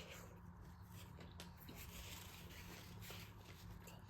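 Near silence: faint eating and handling noises, light rustling and a few small clicks over a low steady hum.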